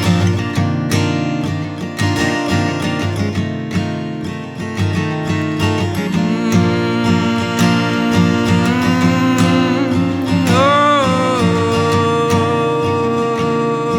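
Acoustic guitar strumming an instrumental passage of a gentle folk song, in a reverberant room. About halfway through a held melody line comes in over it, wavers briefly and then settles on a long steady note.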